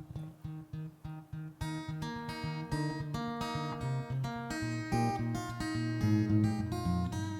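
Instrumental intro of a live acoustic song: a steady, muted strummed rhythm on an acoustic string instrument, joined about a second and a half in by a fuller accompaniment of picked melody notes and bass.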